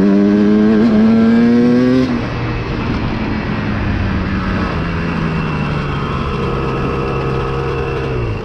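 Dirt bike engine pulling hard with its pitch rising for about two seconds, then dropping to a lower, steadier running note that cuts off suddenly near the end.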